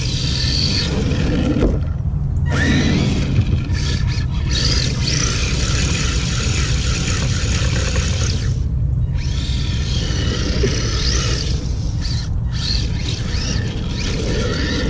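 Electric motor of a Redcat Thunder Drift RC drift car whining, its pitch rising and falling with the throttle. It cuts out briefly about two seconds in, about nine seconds in and about twelve seconds in, over a steady low rumble.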